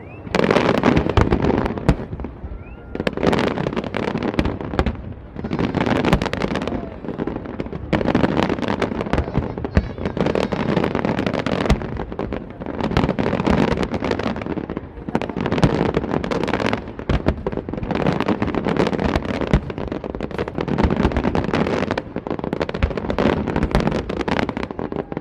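Aerial fireworks display: dense crackling and banging shell bursts going off in waves every two to three seconds, with brief lulls between.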